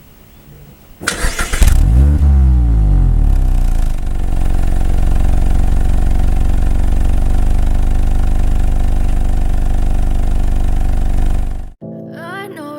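Mazda ND Roadster (MX-5) inline-four with an aftermarket KPC exhaust being started: the starter cranks briefly about a second in, then the engine catches with a rev flare that falls back and settles into a steady idle. The engine sound cuts off suddenly near the end and music begins.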